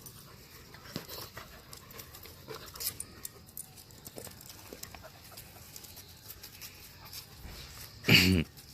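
A puppy gives a single short, loud bark near the end, over faint scuffling and small clicks.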